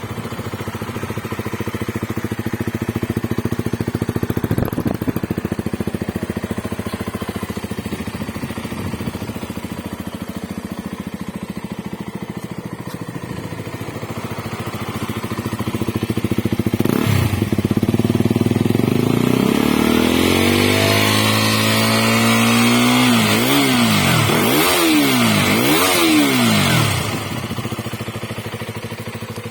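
KTM 200 Duke's single-cylinder four-stroke engine breathing through an aftermarket Akrapovic muffler, idling. Partway through, one quick blip is followed by a held rev that climbs in pitch, then three sharp blips of the throttle, before the engine settles back to idle.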